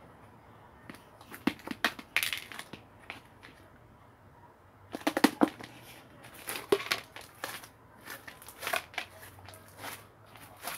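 Handling noise of something crackling and crinkling, in quick clusters of sharp clicks: one spell about a second in, a pause, then a longer spell from about five seconds in.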